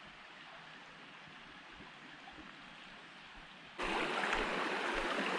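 Mountain stream flowing: faint water noise at first, then, nearly four seconds in, the rush of the water jumps suddenly much louder and closer.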